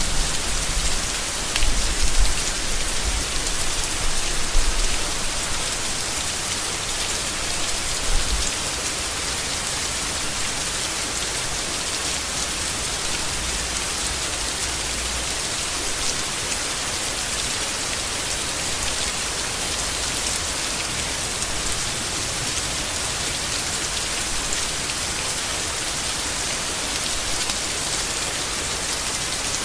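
Steady rain falling on leaves, an even hiss, with a few short low rumbles in the first eight seconds or so.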